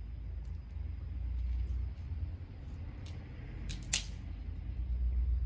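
Small wood fire crackling: a few sharp pops about three to four seconds in, the loudest near four seconds, over a steady low rumble.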